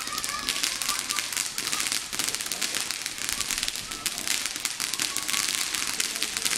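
Firework crackling: a dense, continuous stream of sharp pops and crackles.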